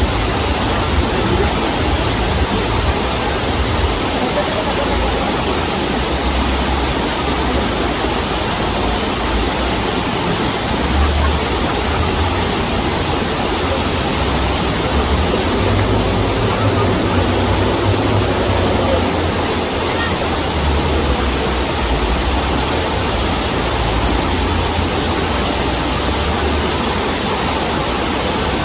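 Waterfall pouring steadily: a dense, even rush of falling water with a deep rumble underneath.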